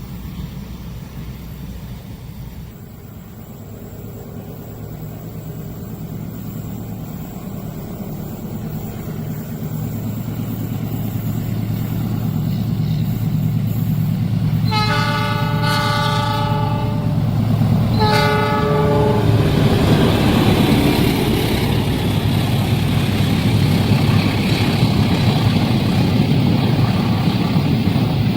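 A train approaching over a level crossing, its low engine hum growing steadily louder. It sounds its multi-note horn twice, a blast of about two seconds and then a shorter one a second and a half later, and then passes close by with loud rumbling wheel and rail noise.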